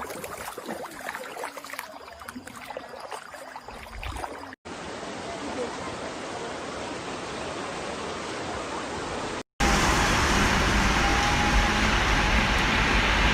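Rushing floodwater: a steady noisy roar of fast-moving water across three short cuts, with crackling in the first. The last cut, from about two thirds of the way in, is much louder and carries a heavy low rumble.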